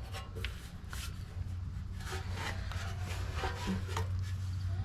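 Hands handling a part pulled off a car's front end: rubbing and scattered light knocks and clicks, over a steady low hum.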